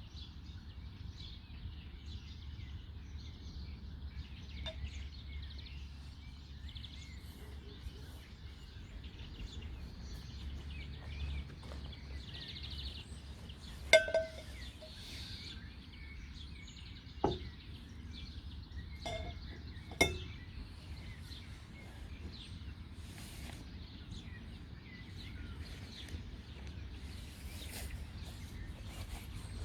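Park ambience after rain: faint scattered birdsong over a steady low rumble. About halfway through come four sharp clicks or knocks, the first the loudest.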